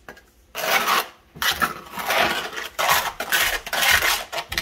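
A trowel scraping and stirring quick-setting thinset mortar in a small mixing pan, in three or four scraping strokes of about a second each.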